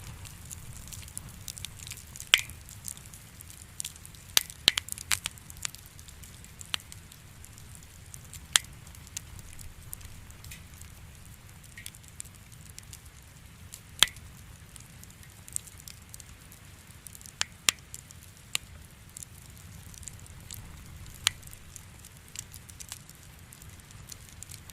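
Wood campfire burning: the firewood crackles with irregular sharp pops, a few seconds apart, over a low steady rumble of the flames. Two pops stand out as the loudest, one a couple of seconds in and one around the middle.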